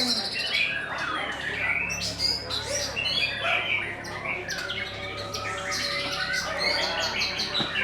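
Many caged contest songbirds singing at once: a dense chorus of overlapping chirps, whistles and trills.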